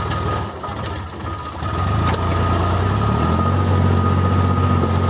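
Tractor diesel engine running with a steady high whine over it. The engine sound dips briefly, then picks up, and about three seconds in the engine note rises and holds louder as the revs go up.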